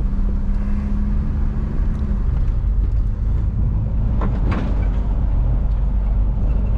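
Driving noise heard from inside a moving vehicle's cab: a steady low engine and road rumble, with a steady hum over the first couple of seconds.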